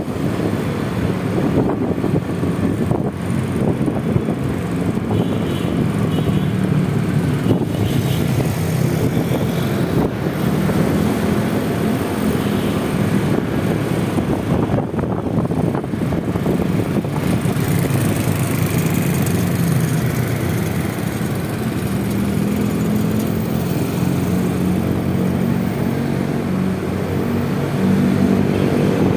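Honda Vario 125 scooter's single-cylinder engine running steadily while riding through city traffic, its pitch drifting slowly up and down with road speed.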